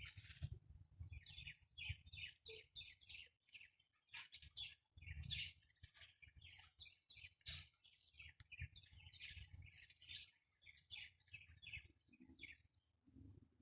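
Small pet parrots chirping and chattering faintly in a quick, continuous run of short high notes.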